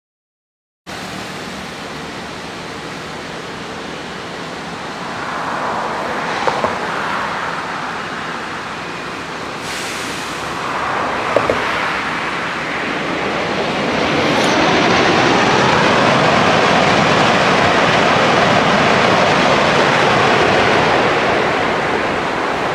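A passenger train passing: a steady rush of wheels on the rails that swells louder about fourteen seconds in, with two quick double clicks along the way. The sound starts abruptly about a second in.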